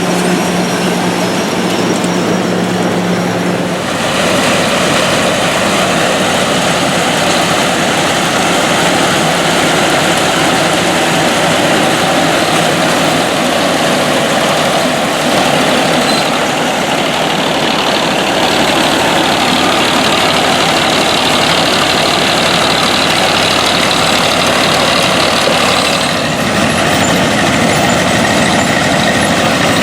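Engine of vintage harvesting machinery running steadily under load in the field, with a dense mechanical rumble. The sound changes abruptly about four seconds in and again near the end.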